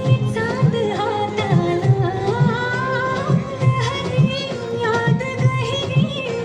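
Indian film song: a woman singing a wavering melody over a steady drum beat, about two strokes a second.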